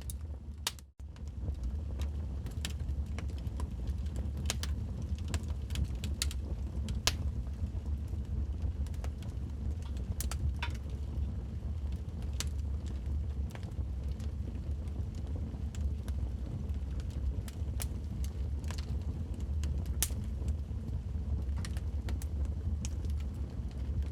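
Logs burning in a fireplace: a steady low rumble with frequent sharp, irregular crackles and pops. The sound drops out for an instant about a second in.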